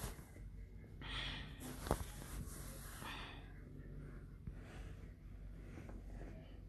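A person's breathing close to the microphone: several soft breaths or sniffs, about a second each, with a sharp click about two seconds in.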